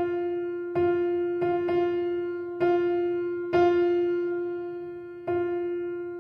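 Background music: a piano-like keyboard striking the same note about seven times at uneven intervals, each strike ringing and fading away.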